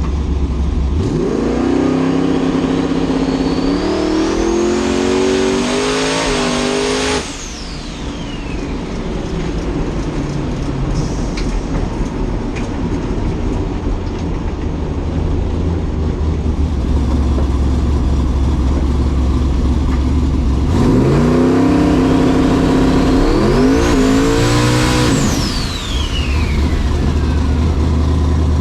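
Drag race cars accelerating hard twice, the engine pitch climbing in steps through the gears with a high rising whine that peaks and then falls away; a steady low rumble runs underneath.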